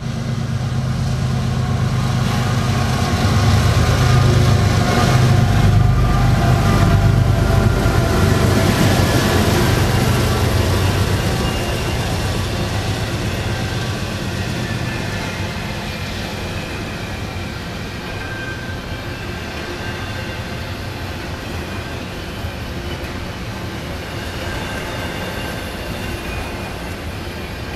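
A Norfolk Southern diesel-hauled freight train passing close by. A deep engine drone builds and peaks a few seconds in as the locomotives go past. From about twelve seconds in it gives way to the quieter, steady rolling rumble of double-stack container cars on the rails.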